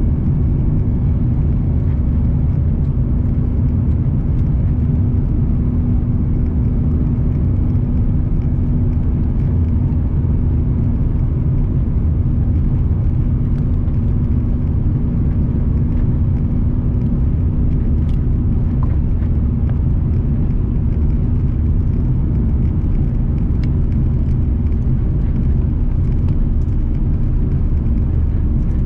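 Cabin noise of a Lufthansa Airbus A340-300 taking off: a steady, loud rumble and drone from its four CFM56 engines at takeoff thrust, with a faint steady hum running through it.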